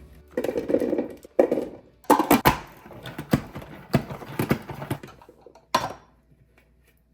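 Household items being handled and set down: a rustle at first, then a run of light knocks and clacks, as of plastic containers and food packages placed on shelves, stopping about six seconds in.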